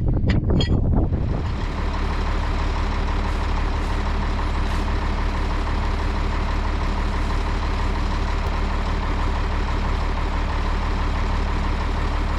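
Tractor engine running steadily at idle after about a second of knocking and clatter, with its newly replaced, rubbed-through hose back in place.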